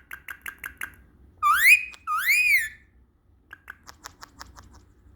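Indian ringneck parrot whistling: a quick run of short chirps, then a two-note whistle, the first rising and the second rising and falling. A patter of soft clicks follows.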